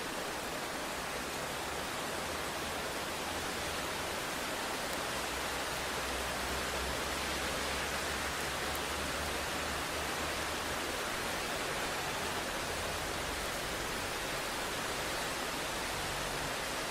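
Steady rain, an even hiss, with a low rumble that swells through the middle and fades again.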